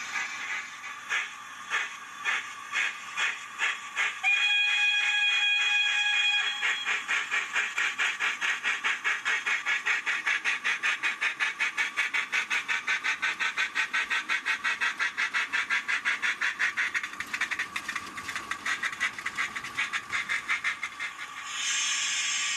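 Accurascale J68 0-6-0T model locomotive's DCC sound decoder playing steam exhaust chuffs through its small speaker, the beat quickening from slow, separate chuffs to a fast, even rhythm. A steady whistle blows for about two seconds around four seconds in. The chuffs slow again near the end, where a loud steam hiss starts.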